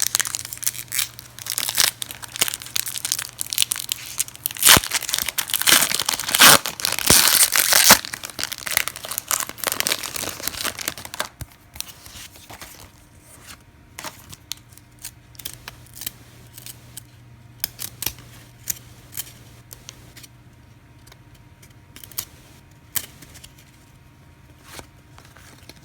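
A trading-card pack wrapper being torn open and crinkled for about the first ten seconds. After that come quieter scattered clicks and rustles of the cards being handled.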